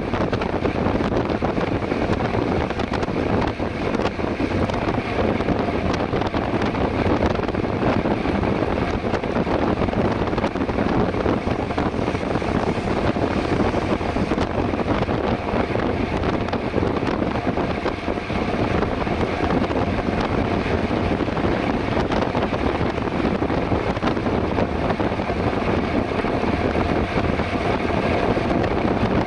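Steady wind rushing over the microphone of a camera on a moving bicycle at road-race speed.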